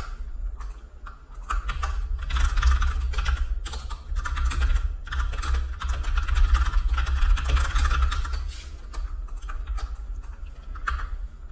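Irregular clicking and tapping at a computer keyboard, busiest in the middle stretch, over a low rumble.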